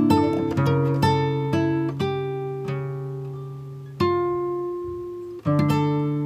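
Background music: an acoustic guitar playing slow picked notes and chords, each ringing out and fading before the next.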